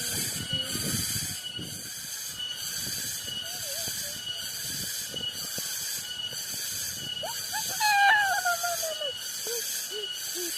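Cicadas droning high and shrill in a steady pulsing rhythm, a little over one pulse a second: the 'strange sound' of the Cilember parking lot. About three quarters of the way in, a loud falling, wavering voice-like call cuts across it, followed by a few short ones.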